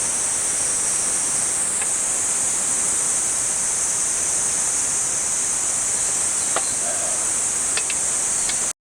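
Insects trilling in a steady high-pitched chorus, with a few faint clicks in the second half. The sound cuts off abruptly near the end.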